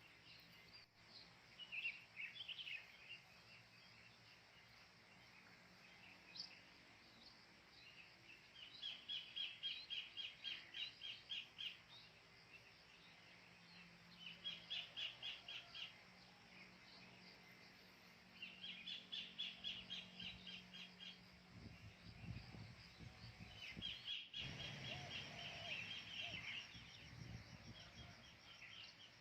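Wild birds calling faintly: bouts of rapid, evenly repeated chattering notes, each about two seconds long and coming every few seconds. A low rumble sits underneath for the last several seconds.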